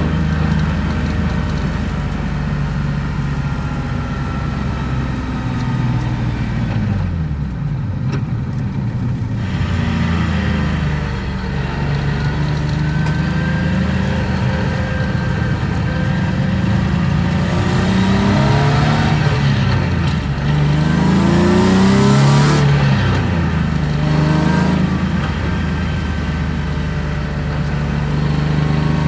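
BMW E36 325i's M50B25 straight-six with aftermarket headers and exhaust, heard from inside the car, pulling and easing off: the engine note climbs under acceleration and drops sharply several times as the revs fall on shifts or lifts.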